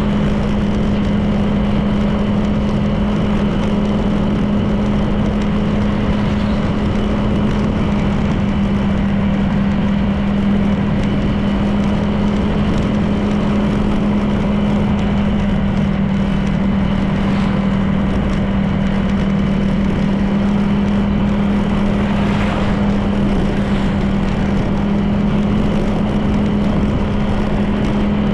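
Honda PCX 160 scooter's single-cylinder engine and drive running at a steady cruise, a constant hum with road and wind noise underneath.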